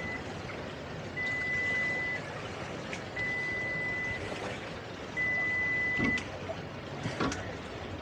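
Electronic alarm beeper on a boat sounding a steady, high single tone, about a second on and a second off, three beeps after the tail of one at the start. Under it runs a steady engine and water noise, with a couple of short knocks near the end.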